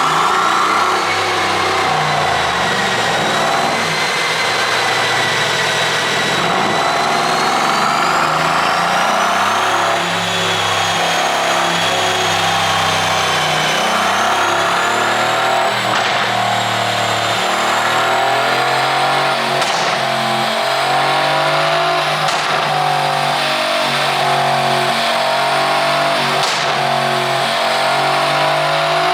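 Mercedes-AMG C63's 4.0-litre twin-turbo V8, on an ECU tune for exhaust pops, running under way, its pitch slowly rising and falling with the throttle. A few brief sharp cracks come in the second half.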